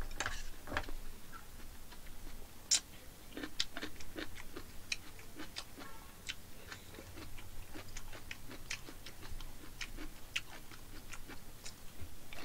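A person eating close to the microphone: chewing with many irregular sharp clicks and smacks from the mouth and chopsticks.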